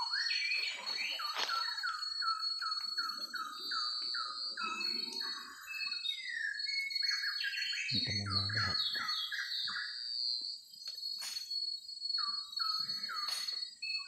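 A forest bird singing runs of short, repeated down-slurred whistled notes, about three a second, pausing and starting again several times. Under it runs a steady high-pitched insect drone.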